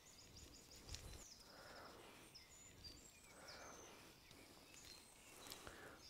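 Near silence: faint outdoor ambience with a few distant, high bird chirps in the first half.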